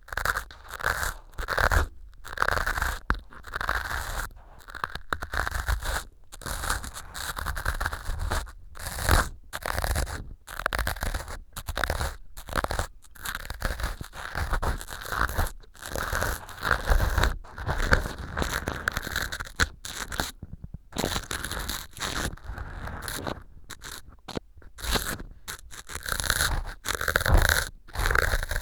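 Ear pick scraping and crunching through pieces of dry floral foam packed into a silicone ear model, picked up close by a binaural microphone: short strokes one after another with brief pauses between them.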